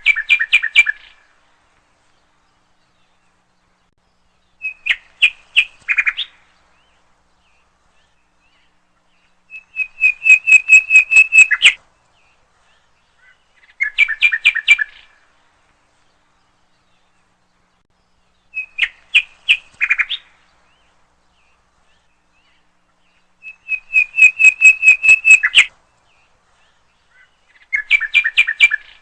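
A songbird singing in seven short phrases, each a quick run of repeated whistled notes lasting a second or two, with pauses of a few seconds between phrases.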